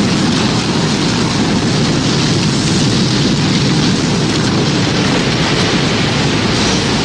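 Tornado sound effect: a loud, steady roar of wind with a rain-like hiss over it.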